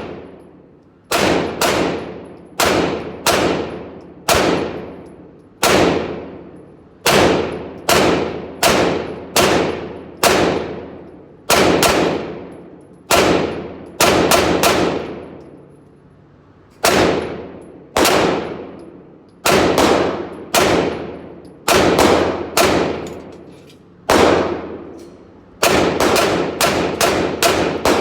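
9mm Glock 19 Gen 4 pistol, mounted in a CAA Micro Conversion Kit, fired shot after shot at a steady pace of about one to two shots a second, with a few short pauses. Each shot echoes and fades slowly, as in an indoor range.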